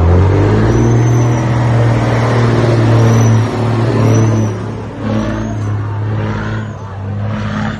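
Heavy truck engine running hard and revving, with short dips in the engine note about three and a half and five seconds in, as in gear changes.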